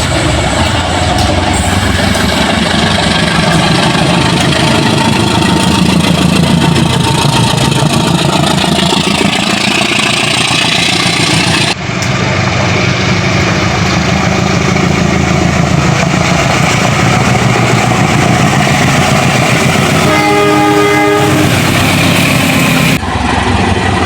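A train running past with loud, steady engine and wheel noise. A horn sounds briefly about 20 seconds in, and the sound breaks off abruptly near 12 seconds where one clip cuts to the next.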